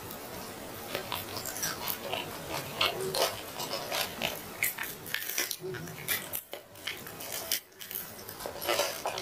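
Close-miked mouth sounds of someone eating grilled chicken: irregular chewing and lip-smacking clicks, several a second.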